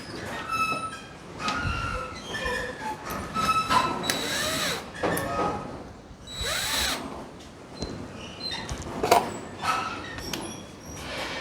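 Hand-held power drill running in several short bursts, its motor whine rising and falling as it speeds up and slows, with clicks and knocks in between.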